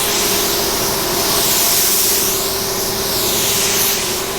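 Paint spray gun hissing as base coat is sprayed onto a truck body, the hiss shifting in tone as the gun sweeps back and forth, over a steady hum.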